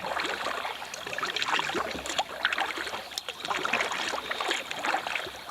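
Kayak paddle working the water: irregular splashing and dripping from the blades as the boat is paddled.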